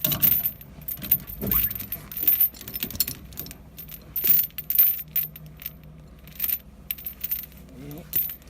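Metal clinking and rattling in irregular short bursts over a steady low hum.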